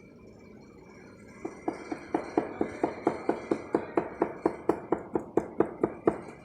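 Rapid, even tapping, about four to five knocks a second, starting about a second and a half in and stopping shortly before the end, over a faint steady high whine.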